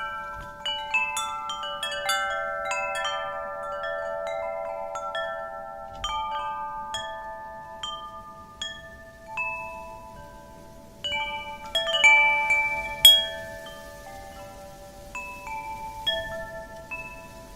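Wind chimes ringing in the wind: irregular strikes of several chime tones that ring on and overlap, with a denser flurry of strikes about two-thirds of the way through. Faint wind noise lies underneath.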